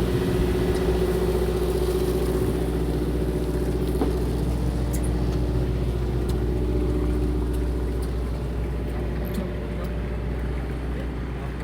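A fishing boat's onboard engine running steadily, a constant low hum with a few faint ticks over it.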